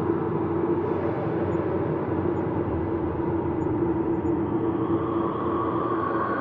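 Ambient space drone: a steady hum of sustained tones over a dense, rumbling hiss, with a higher tone swelling in near the end.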